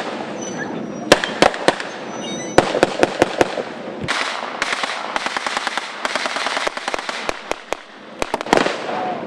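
Blank gunfire: irregular single shots and short clusters, with a long rapid run of shots from about four to six seconds in and another flurry near the end.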